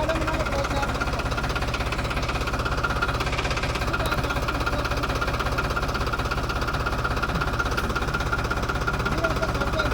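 Diesel tractor engine running steadily, with an even, fast firing rhythm that holds constant.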